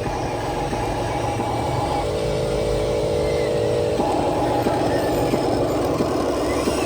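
Radio-controlled model trucks running, a steady motor-and-gear whine whose pitch pattern shifts about every two seconds, over a low rumble with a few small clicks.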